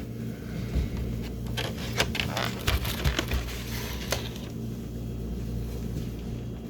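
Scattered clicks and light knocks of food packaging and utensils being handled, thickest in the first four seconds, over a steady low hum.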